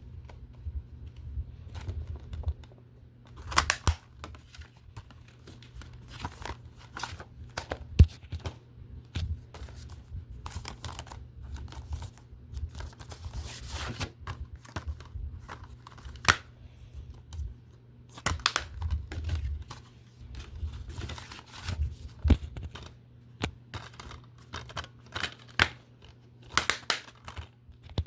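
Plastic film and TV disc cases being handled: irregular clicks, knocks and rustles. A faint low hum runs underneath.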